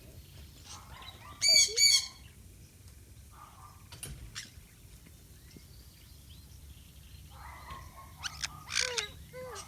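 Backyard birds calling: a loud burst of calls about a second and a half in, softer calls in between, and another cluster of several calls near the end.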